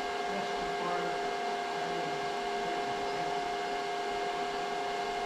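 A machine running steadily: a constant drone with two held whining tones over a noisy hiss.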